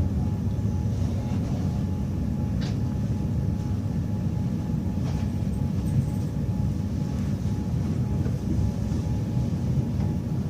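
Train running on the rails: a steady low rumble with a faint steady tone and a few light clicks.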